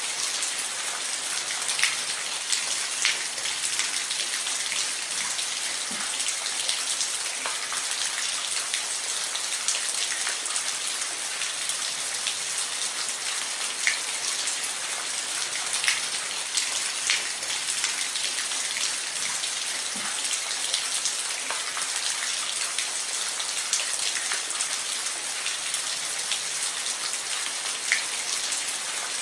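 Steady rain falling on a roof: an even hiss with individual drops ticking sharply here and there.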